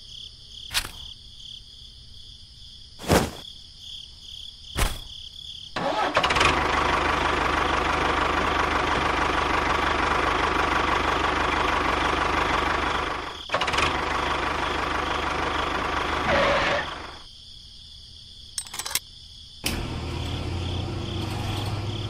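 A few sharp knocks, then an engine running loud and steady for about ten seconds, with a short break a little past halfway, before it stops; near the end a lower engine idle with a low hum starts.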